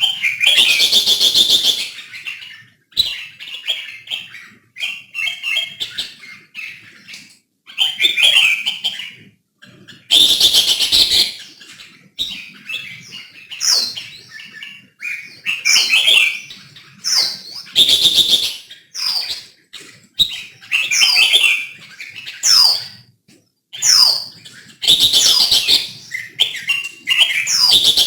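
Red-whiskered bulbul singing: short, loud phrases of whistled notes, many with quick downward sweeps, repeated every one to three seconds.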